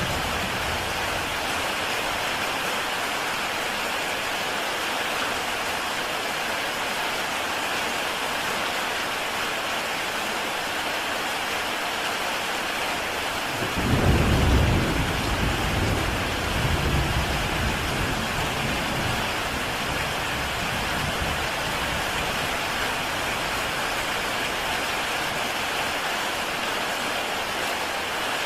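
Heavy rain falling steadily on a tile roof, an even hiss of drops. About halfway through, a low rumble rolls in, the loudest part, and fades away over a few seconds.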